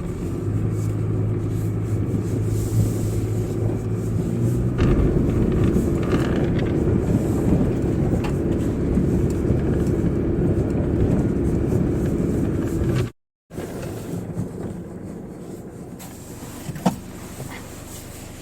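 Car driving on a snowy road, heard from inside the cabin: steady engine and tyre rumble. It cuts off abruptly about 13 seconds in and gives way to a quieter steady rumble.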